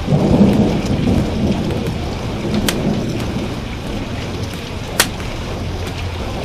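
A thunder clap rumbles in over steady heavy rain and fades away over a few seconds. Two sharp pops of a crackling wood fire cut through, the louder one near the end.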